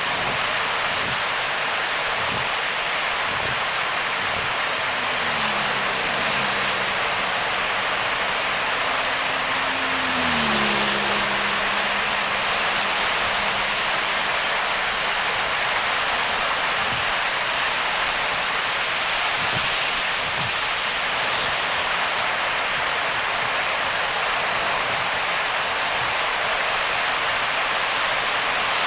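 Heavy rain drumming on a car driving through a downpour, with a steady dense hiss of rain and wet tyre spray. About ten seconds in, a low engine tone drops in pitch and then fades.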